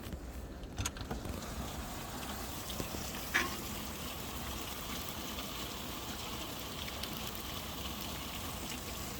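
Rain falling in a steady hiss, with a couple of sharper taps near the start and about three seconds in.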